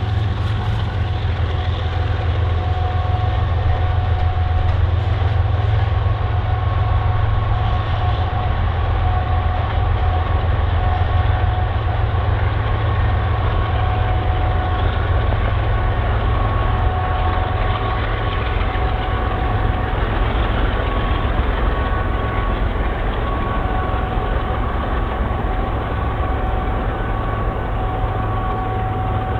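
Freight train rolling past, a steady low rumble of the cars on the rails with two faint steady high tones over it.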